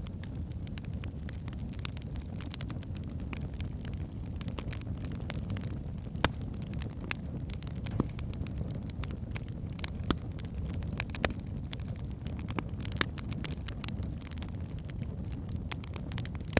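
Wood fire burning in a fireplace: a steady low rumble of flames with scattered sharp crackles and pops from the logs, a few louder snaps spread through.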